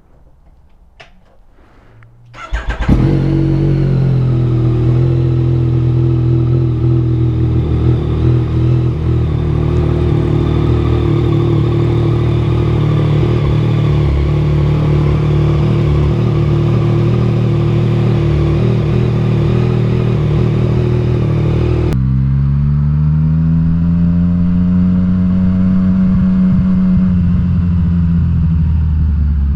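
Yamaha FZ-09's inline three-cylinder engine starting about two and a half seconds in after a few faint clicks, then idling steadily. Near the end its pitch climbs smoothly for several seconds as the bike accelerates, then levels off.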